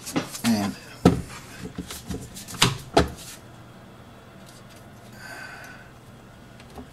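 Knocks and clatters of a hose, clamp and tools being handled inside a sink base cabinet, about five sharp ones in the first three seconds, then quieter. A faint brief hum about five seconds in.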